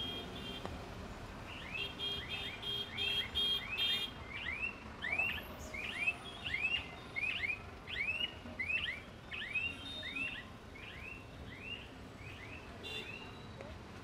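A bird calling over and over, a run of short high chirps about two a second that starts a second or two in and fades out near the end, over a low hum of road traffic.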